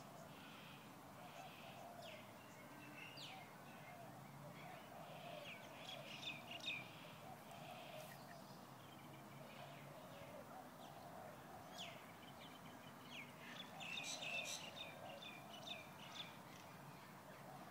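Small birds chirping faintly in short, quick calls. The calls come thickest about six seconds in and again around fourteen seconds in, over a faint steady outdoor background.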